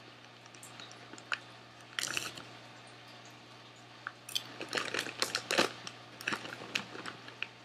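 A hand rustling in a crinkly snack bag about two seconds in, then popcorn being chewed close up, a quick run of crisp crunches from about four seconds in.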